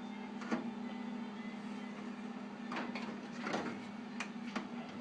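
MIG welder tacking spot welds on a car's sheet-metal cowl seam: a few short crackling bursts and clicks over a steady hum.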